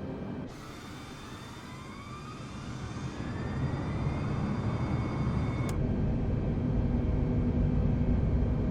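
Airbus A320neo jet engines spooling up to takeoff thrust: a rising whine for the first few seconds, then a growing low roar. The whine cuts off suddenly about two-thirds of the way through while the roar keeps building.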